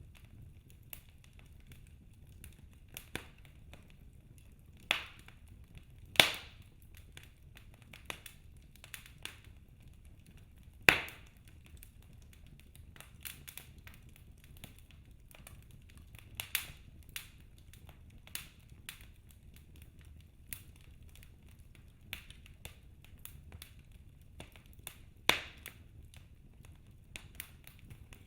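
Wood fire crackling in a fireplace: irregular sharp pops and snaps from the burning logs over a faint low rumble, with a few much louder snaps standing out.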